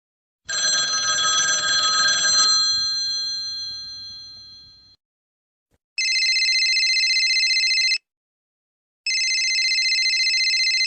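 A telephone ringing twice, each ring a steady trilling tone about two seconds long with a second's gap between. Before it, a metallic ring starts sharply and fades away over about four seconds.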